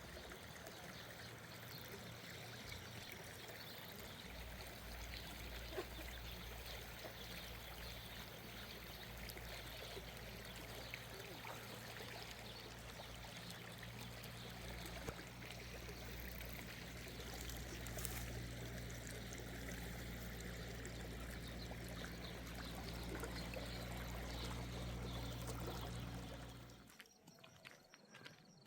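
Running water, a steady rushing and trickling. Underneath it a low steady hum comes in a few seconds in and grows stronger later. The sound drops off suddenly near the end.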